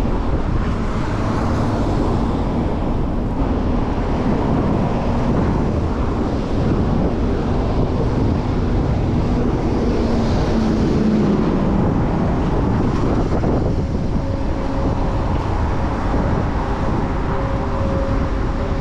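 Wind rushing over the microphone during a bicycle ride, with city traffic around it. The hum of nearby vehicle engines comes and goes, one around ten seconds in and another in the last few seconds.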